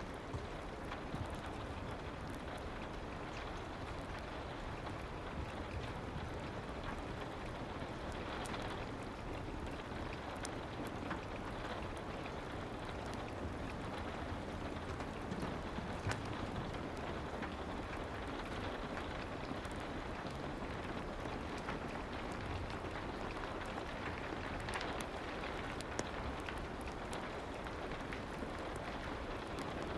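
Steady soft rain, with sparse faint crackles of a fireplace scattered through it.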